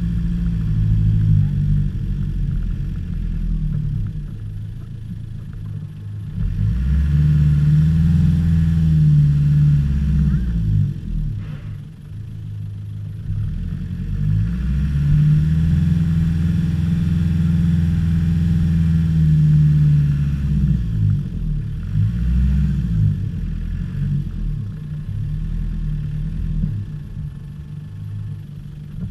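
Land Rover Discovery engine pulling over rough off-road ground. Its revs rise and hold high twice, from about seven to ten seconds in and again from about fifteen to twenty seconds in, easing off in between.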